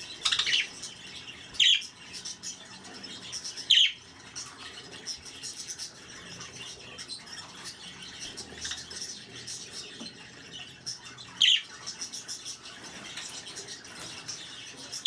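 Budgerigars chattering and warbling without a break, with five louder, sharp calls standing out: two early on, one around four seconds in, one past eleven seconds and one at the very end.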